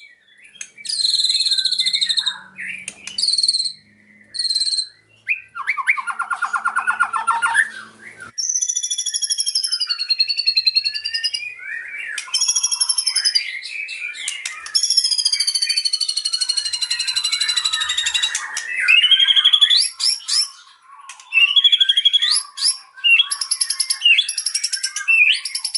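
White-rumped shama (murai batu) singing a long, varied song. Clear whistles, sweeping and wavering notes, a buzzy trill about six seconds in and rapid chattering phrases follow each other with short pauses, including mimicked phrases of the cililin.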